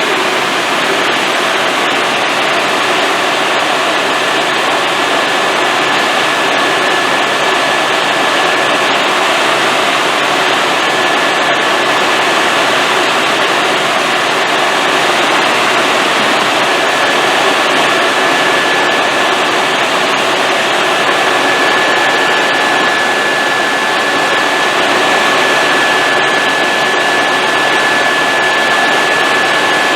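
Helicopter in flight heard from inside the cabin: the turbine engine and rotors make a loud, steady noise with a thin high whine running through it.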